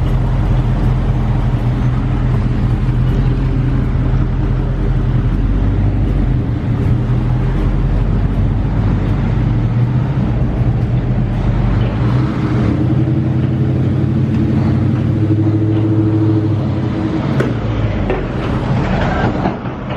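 2021 Dodge Charger Scat Pack's 392 HEMI V8 with its stock exhaust, droning steadily along with road noise while cruising. The engine note shifts about ten to twelve seconds in.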